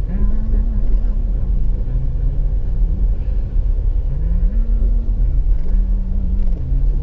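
Car driving along: a steady low rumble of road and engine noise, with a low hum that steps up and down in pitch.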